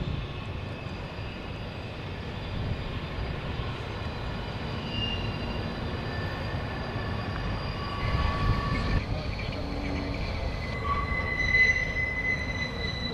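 Steady low rumbling noise, with thin high squealing tones that come and go and grow stronger in the second half.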